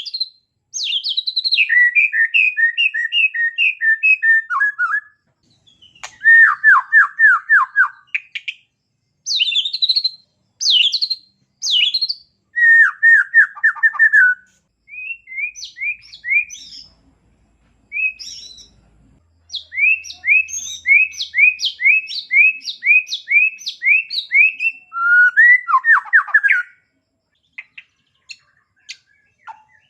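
White-rumped shama singing a varied song: a series of separate phrases, each a quick run of repeated chirps or trills, with short pauses between them. Its phrases include borrowed small-bird calls.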